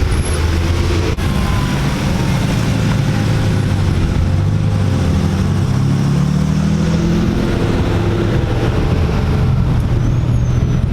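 Car engine running hard at high revs, its pitch climbing steadily for a few seconds around the middle, then settling to a lower, steadier note.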